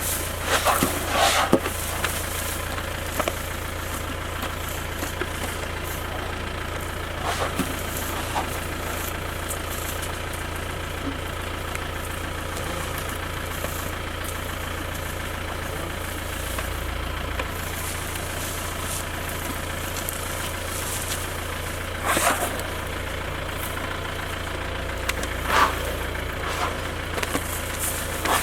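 Safari jeep's engine idling steadily, with a few brief louder noises breaking in now and then.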